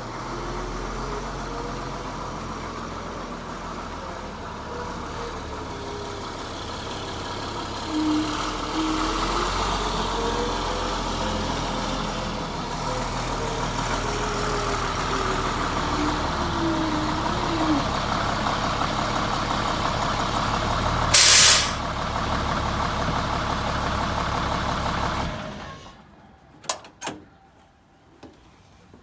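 International 4700's DT466E turbo-diesel inline-six running while the truck is manoeuvred, with a whine that rises and falls in pitch as the revs change. About 21 seconds in there is a short, loud air-brake hiss as the brakes are set. The engine shuts off about 25 seconds in, followed by a few clicks.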